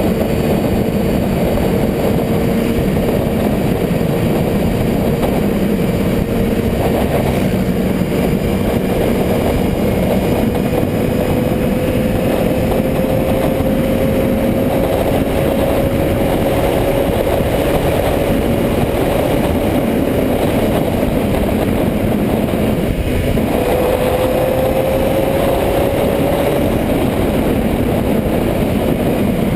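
Motorcycle engine running with a steady tone that slowly rises in pitch, under a dense steady rush of noise; the tone drops back briefly about 23 seconds in and climbs again.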